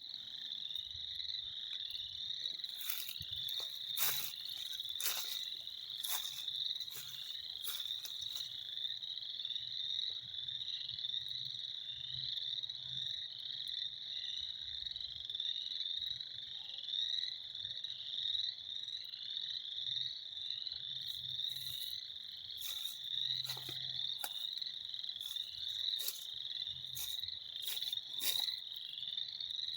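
A dense chorus of frogs: many short, high calls overlapping into one continuous shrill trill, with sharp louder notes from nearer callers cutting through every second or two.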